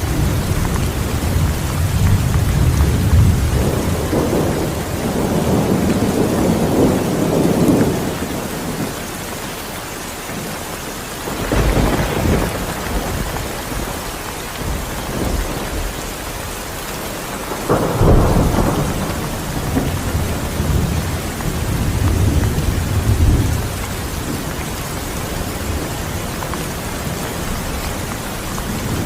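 Steady rain falling through a thunderstorm, with long deep rolls of thunder. Two sharper thunderclaps break in, one about twelve seconds in and another about six seconds later.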